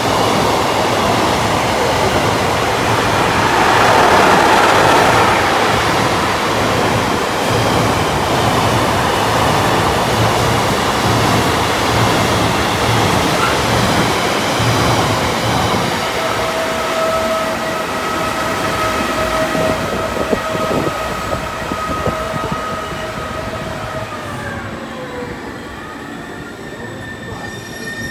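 Passenger train running on the rails, loudest about four seconds in. About halfway through, a steady two-tone whine joins in and slides down in pitch near the end.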